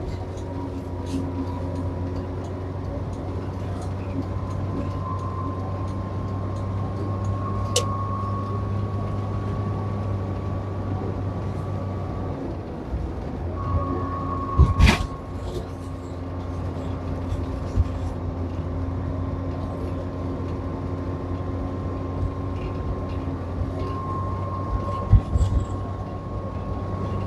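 Winnebago Lesharo camper van's engine pulling hard under acceleration: a steady drone with a whine that slowly rises. The whine breaks off about twelve seconds in and returns about a second later, with a change in the engine's tone at a gear change. There is a loud knock about fifteen seconds in.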